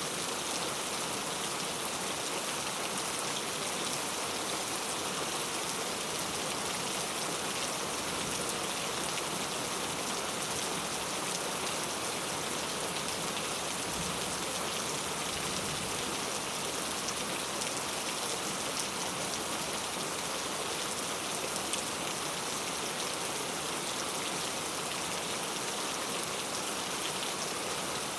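Heavy rain falling steadily, a dense even hiss of drops on hard street surfaces.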